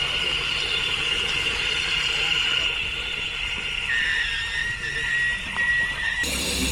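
A steady high-pitched mechanical whine with several tones; a second, slightly lower tone joins about four seconds in. Near the end it cuts off suddenly into electronic music.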